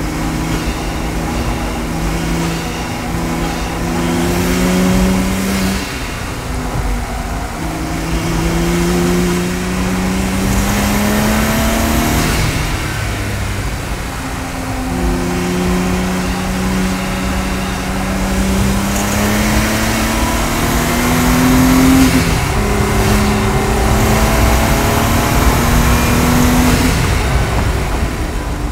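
Audi S4's twin-turbo V6 under hard acceleration on track, in four long runs that rise steadily in pitch, each broken off by a short drop as the driver shifts or lifts. Wind and road noise from the cabin run underneath.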